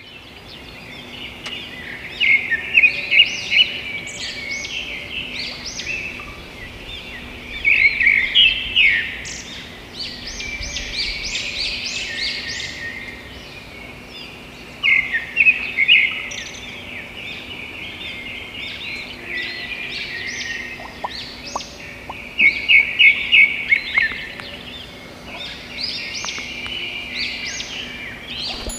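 Birds chirping and calling in quick runs of several high notes, with quieter calls in between, over a faint steady low hum.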